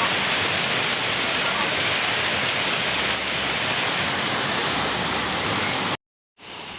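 Steady rushing noise with no distinct events, like running water or heavy rain. It cuts out completely for a split second about six seconds in, then comes back quieter.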